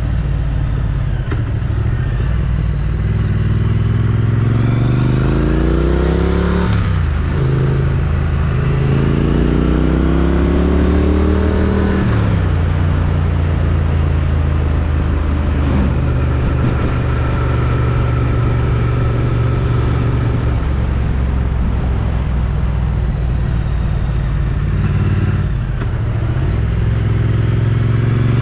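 Triumph Street Twin's parallel-twin engine through its stock exhaust, pulling hard with a rising pitch that drops sharply twice as it shifts up, then cruising at a steady pitch. Near the end it eases off briefly and picks up again.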